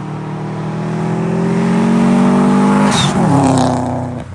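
BMW 335is's N54 twin-turbo inline-six accelerating hard, its note climbing for about three seconds, then a short hiss as the throttle lifts for the upshift: the newly fitted blow-off valve venting. After the shift the revs drop and the note fades.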